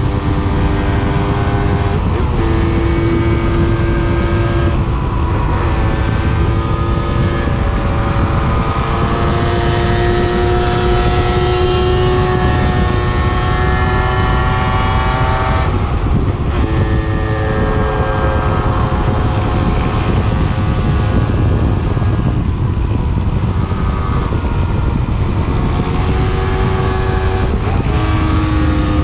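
125 cc enduro motorcycle engine pulling hard through the gears. Its pitch climbs steadily in each gear and drops sharply at each shift, several times, with a long pull at high revs in the middle.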